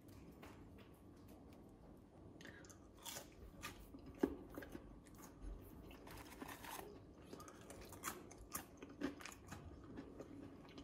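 Faint crunching of air-fried chips being bitten and chewed, mixed with light clicks of chips handled in a stainless steel bowl; one sharper click about four seconds in.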